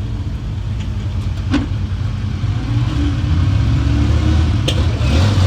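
Car engine idling steadily, growing louder about halfway through, with a short click about a second and a half in.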